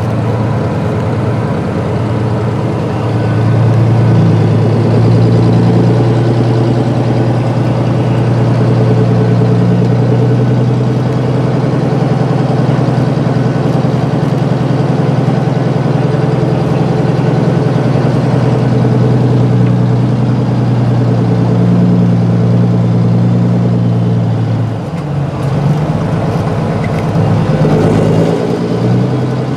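Peterbilt 389 semi truck's diesel engine running steadily while it drives down the road pulling a loaded grain trailer, heard from inside the cab. The engine note grows louder a few seconds in, then breaks off and changes pitch near the end.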